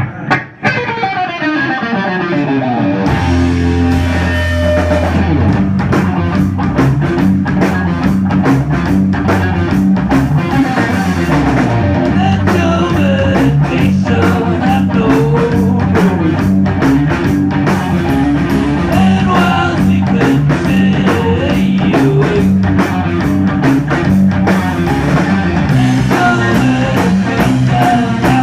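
Live stoner rock band playing: distorted electric guitar and bass with a drum kit. Falling guitar notes open it, then a heavy, low, repeating riff comes in about three seconds in, with the drums hitting hard and dense from about six seconds on.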